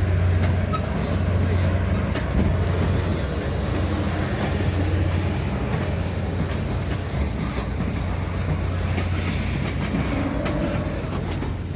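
Canadian Pacific Holiday Train rolling by, its wheels clicking over the rail joints above a steady low hum.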